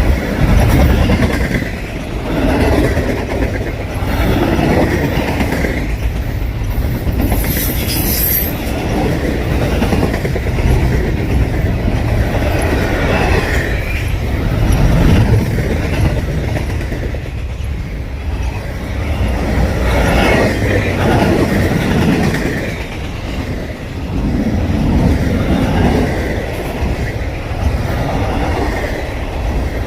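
Cars of a BNSF double-stack container train rolling past, with steady rumbling and wheels clacking over the rail joints. A brief high wheel squeal comes about eight seconds in.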